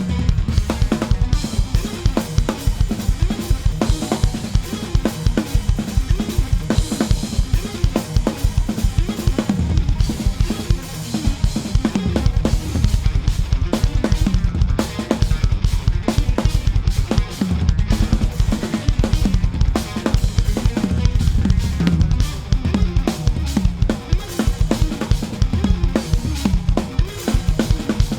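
Drum kit played fast with dense, rapid bass drum strokes under snare hits and cymbals, driving an instrumental progressive metal piece.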